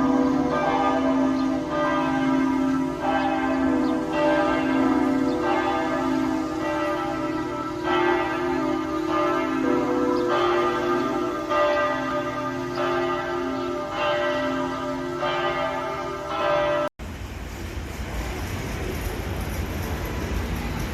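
Bells ringing, struck about once a second with long, overlapping ringing tones. About 17 s in the sound cuts off abruptly and a steady rushing noise follows.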